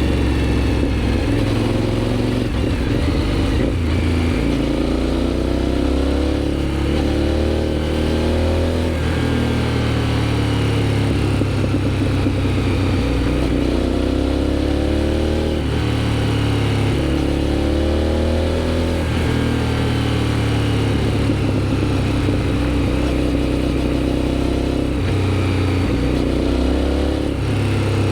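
Aprilia Shiver 750's V-twin engine through a GPR aftermarket exhaust, under way. It rises in pitch as it accelerates and drops back at each gear change, several times over.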